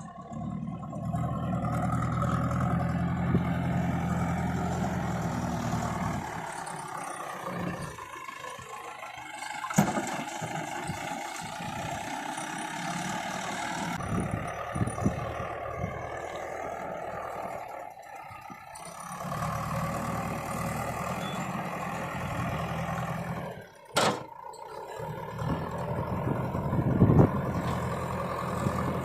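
Diesel engine of heavy loading machinery running and rising and falling in speed as it works. Its note is strongest at the start and again over the last ten seconds, with a sharp click about ten seconds in.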